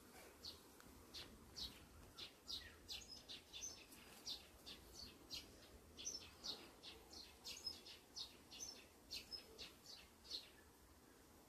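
Small birds chirping: faint, short, high chirps repeating a couple of times a second.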